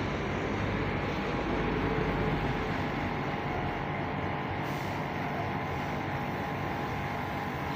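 Compressor running with a steady hum, after its start capacitor has been replaced.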